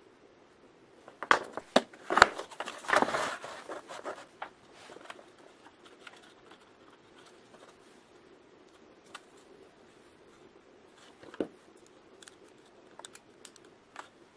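Workshop handling noises: a burst of clicks, knocks and scraping about a second in lasting some three seconds, then scattered light ticks and a single knock later on, over a faint steady hum.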